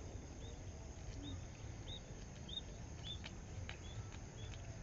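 A small bird chirping repeatedly in short high notes, a little more than one a second, with a few faint light taps in the second half.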